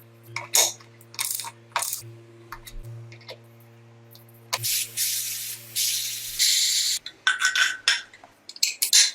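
Workshop sounds: a steady machine hum that stops about two-thirds of the way in, with scattered clicks and taps of tools or parts. Over it comes a burst of spraying hiss lasting under two seconds, and shorter hisses and clicks near the end.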